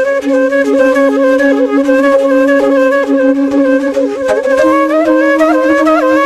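Background music: a flute playing a melody over a steady drone note, the drone stepping up in pitch about four and a half seconds in.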